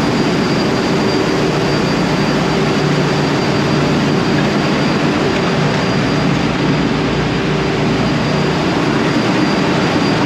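Ship's engine room machinery running: a loud, steady drone with a deep hum and a faint high whine, without change.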